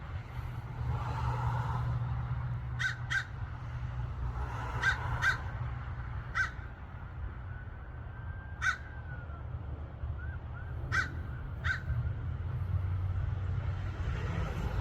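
A bird giving eight short, sharp calls, several in quick pairs, over a steady low rumble.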